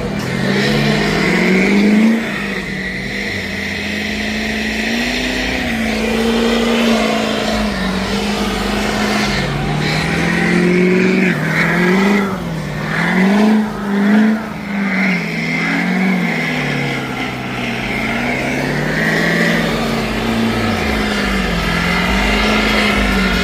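Big mud-truck engines held at high revs, their note surging up and down over and over, as the trucks spin their tires against each other bumper to bumper.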